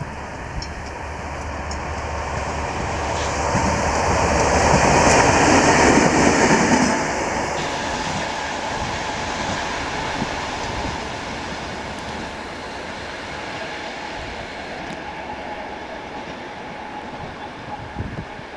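TEM14 diesel locomotive passing by: its engine and wheels on the rails grow louder, are loudest about five to seven seconds in, then drop away and fade as it moves off.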